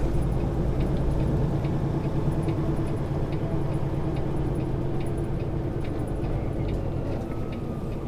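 Tractor-trailer's diesel engine running steadily, heard from inside the cab, with light scattered clicks.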